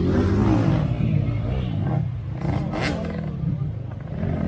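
Off-road 4x4 vehicle's engine revving hard under load, its pitch rising and falling, with a brief sharp noise about three seconds in.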